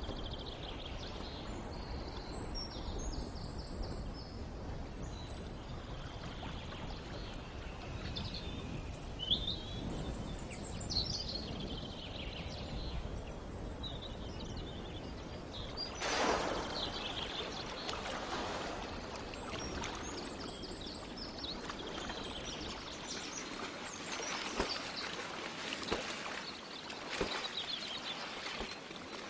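Birds calling in short high chirps over steady wind and water noise, the low rumble easing off near the end.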